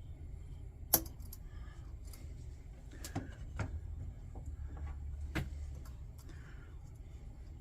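Small metal parts and hand tools handled on a workbench while the check valve of a Coleman lantern is taken out: a sharp click about a second in, then a few lighter knocks and clinks, over a steady low hum.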